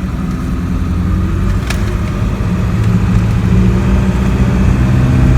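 Motor vehicle driving, its engine running steadily with road noise, the engine note growing a little stronger about halfway through.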